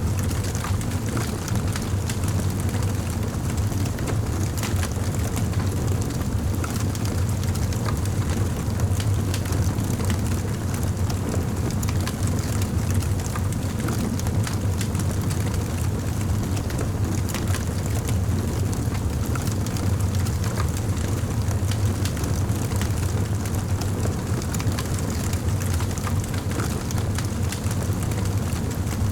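Wood fire crackling in a fireplace: irregular small pops and snaps over a steady low rumble of the burning fire.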